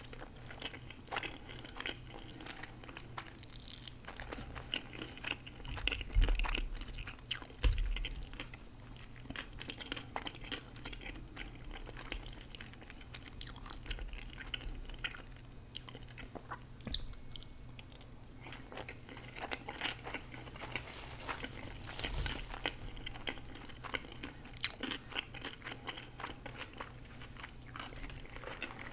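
A person chewing and crunching food close to the microphone, with many short crackly crunches. Two low thumps about six and eight seconds in are the loudest sounds.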